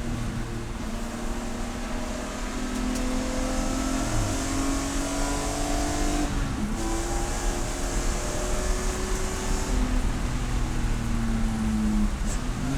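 Race car engine running hard under load, its note drifting in pitch with two brief sharp dips, about six and twelve seconds in, as it changes gear.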